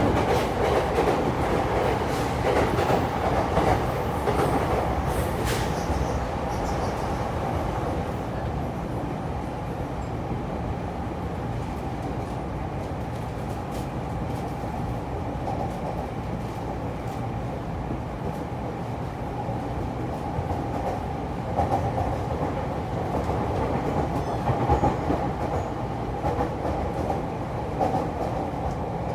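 E231-series electric multiple unit running at speed, heard from inside the car: a steady rolling noise with the clack of wheels over rail joints, and a few louder knocks near the end.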